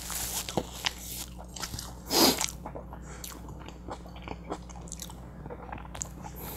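Close-miked chewing of a mouthful of butter chicken burrito: wet mouth sounds and many small clicks, with one louder brief noise about two seconds in.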